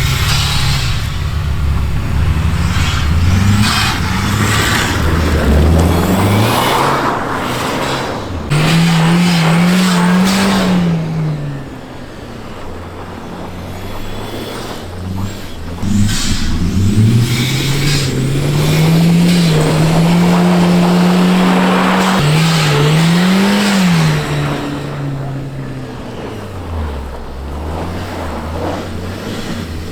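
Turbocharged car engine revving hard while drifting on snow. It climbs to high revs and holds them in two long pulls, easing off in between and again near the end.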